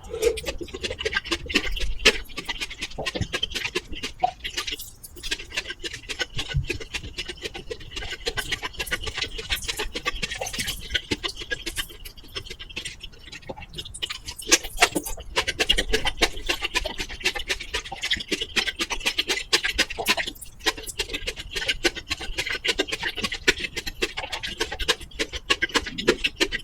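Dense, rapid crackling and clicking throughout from a faulty microphone setup, a noise that remained even after the microphone and cable were replaced.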